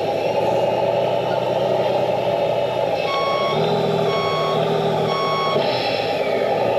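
Radio-controlled model Volvo truck reversing: its reversing alarm beeps three times, about once a second, over the steady hum and whine of the model's drive.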